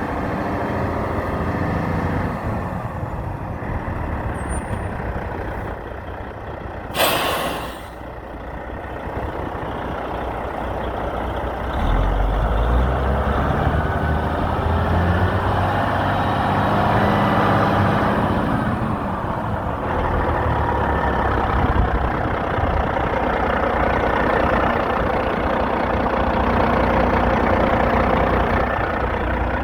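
2006 Kenworth T800 semi truck's diesel engine running, with a short loud hiss of air about seven seconds in, typical of the air brakes being released. From about twelve seconds in the engine runs louder and heavier, with its pitch shifting up and down.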